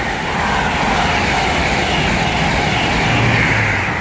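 Virgin Trains passenger train passing at speed along the East Coast Main Line, a loud, steady rushing roar of the train and its wheels on the rails.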